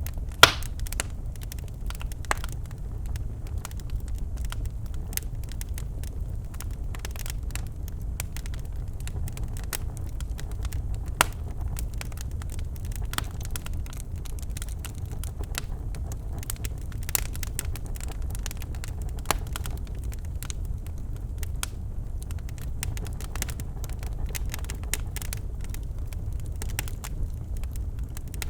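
Birch logs burning in a fireplace: a steady low rumble of the flames with irregular sharp crackles and pops, the loudest pop about half a second in and another near 11 seconds.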